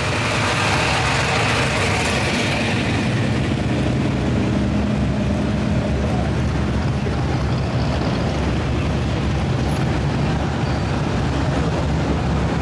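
A vehicle engine running steadily and loudly at a low, even pitch.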